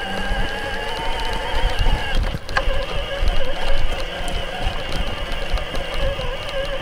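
Mountain bike on the move: a rough rumble of tyres and wind on the microphone, with a steady, slightly wavering whine over it.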